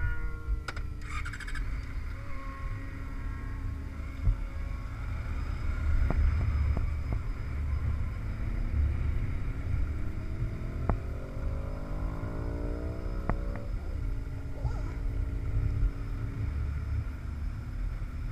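Motorcycle engine running, its pitch climbing steadily for several seconds as it accelerates, then dropping away about 13 seconds in, over a steady low rumble.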